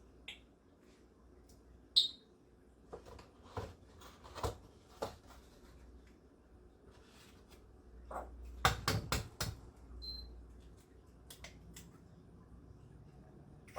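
Light knocks and clicks of cooking utensils, with a quick run of them about eight to nine seconds in and a short, sharp high sound about two seconds in.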